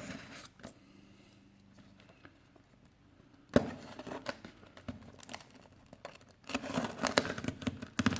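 Cardboard case of die-cast cars being opened by hand: after about three seconds of near quiet, a sudden rip, then crinkling and crackling of cardboard and packing tape, busiest near the end.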